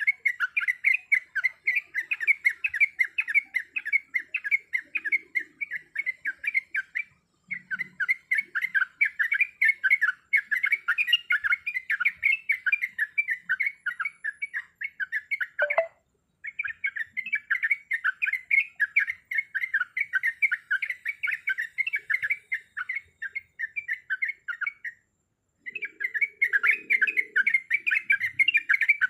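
Trucuk (yellow-vented bulbul) calling in fast, unbroken chattering chirps, in runs of several seconds with brief pauses about seven, sixteen and twenty-five seconds in.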